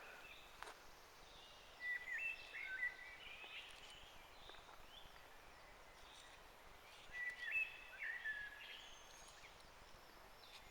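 A songbird singing two short phrases of quick, stepping whistled notes, about two seconds in and again about seven seconds in, over faint outdoor background hiss.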